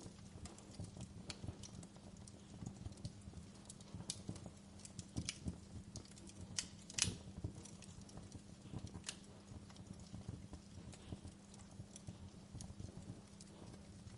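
Fireplace wood fire crackling: irregular sharp pops and snaps over a low steady hum, with a brief cluster of louder pops about seven seconds in.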